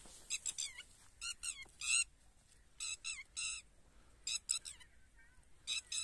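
A bird calling: five short bursts of quick, wavering high notes, each a rapid run of chirps, with gaps of about a second between them.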